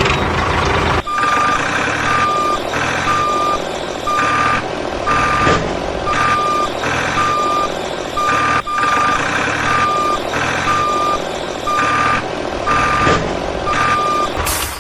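Vehicle reversing alarm beeping in a steady rhythm, about one and a half beeps a second, over the constant noise of a running motor.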